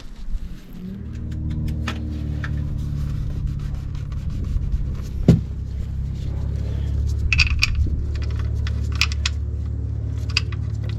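Small metal clicks, clinks and rubbing as a steel drain plug with a new gasket and its socket are handled and threaded back into the oil pan. The loudest is a single sharp clink about five seconds in, with a flurry of clicks around seven to nine seconds, all over a steady low hum.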